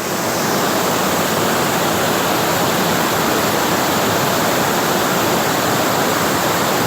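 Large cascading waterfall rushing, loud and steady, a dense roar of falling water with no breaks.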